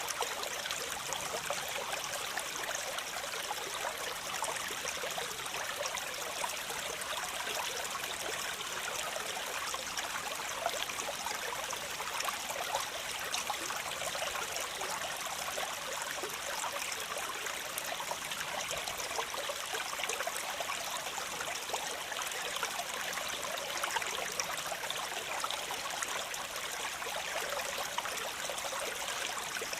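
Waterfall: falling water splashing and rushing, a steady hiss full of small splashes with no pauses.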